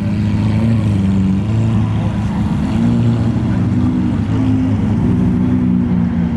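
Car engine running loudly at low revs, its pitch rising and falling several times as it is revved lightly.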